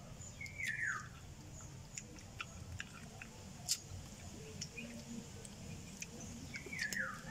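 Close-up chewing and sucking on cooked chicken feet, with scattered small wet clicks and one sharper click near the middle. A bird gives two short falling calls, one about half a second in and one near the end.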